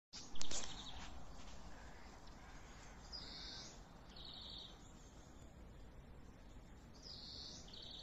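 A bird calls twice, about four seconds apart. Each call is a high note followed by a lower rapid trill, over a steady outdoor background hiss. A sharp knock sounds right at the start.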